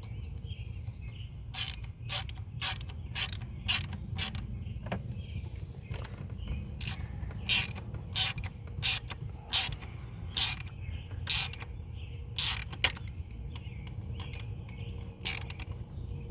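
Hand ratchet wrench clicking in short bursts, roughly two swings a second, as a fastener is run down tight. There are two runs of strokes with a pause between them, over a steady low hum.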